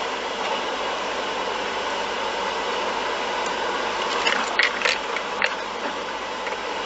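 Steady road and engine noise from a moving vehicle, with a few brief sharp clicks about four to five and a half seconds in.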